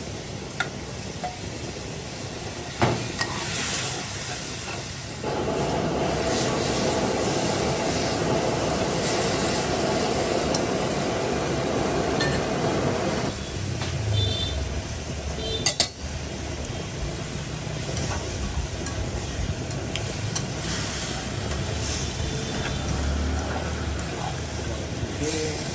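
Porcupine puffer fish pieces sizzling and frying in a pan on a gas burner. The sizzle grows louder from about five seconds in and stays up for several seconds. Utensils click sharply against the pan a few times.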